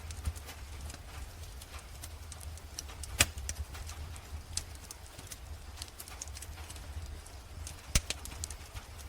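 Wood fire crackling in a fireplace: irregular sharp snaps and pops, two much louder pops about three seconds and eight seconds in, over a low steady rumble.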